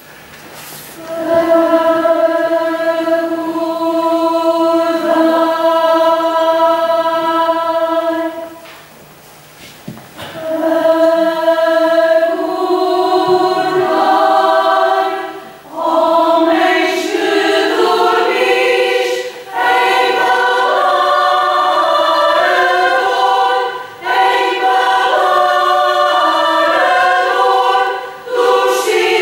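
Choir singing: two long held chords with short breaks between them, then a livelier passage of moving harmonies.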